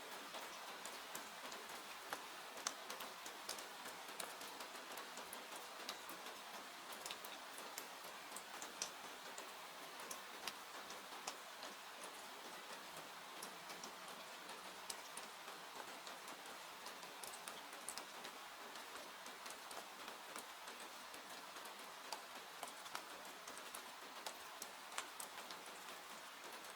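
Steady hiss of falling rain with the irregular crackling and popping of a wood fire in a fireplace, sharp little snaps scattered through it.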